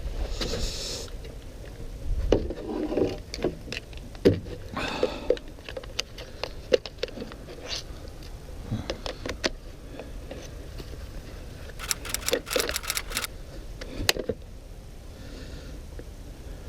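Tools and metal parts being handled: scattered clicks and knocks with short scraping stretches, and a quick run of clicks about twelve seconds in.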